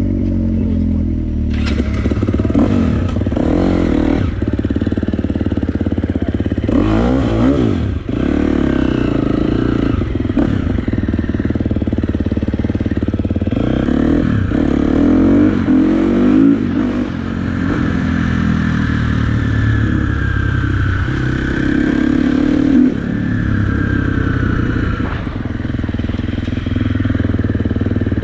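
Dirt bike engine running and revving, its pitch rising and falling again and again.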